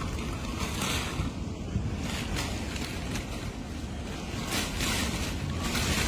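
Hurricane wind rushing and gusting, buffeting the microphone with a heavy low rumble; the gusts swell about a second in and again near the end.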